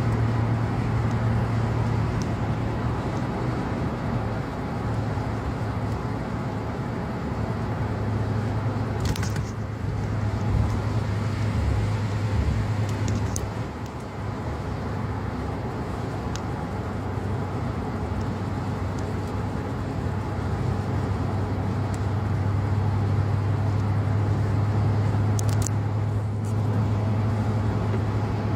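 Car driving at highway speed, heard inside the cabin from a dashboard camera: steady road and tyre noise over a low, even drone, with a few brief faint clicks.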